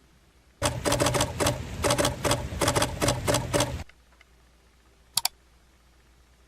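A rapid, uneven run of sharp clicks, about five a second, for about three seconds, then a quick double click about five seconds in.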